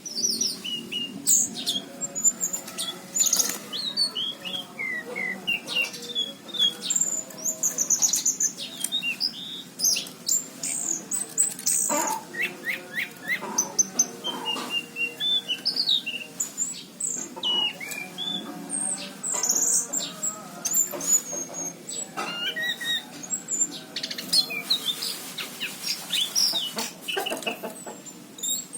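Anis cendana thrush singing lively and without pause: a long, varied run of quick chirps and sliding whistles.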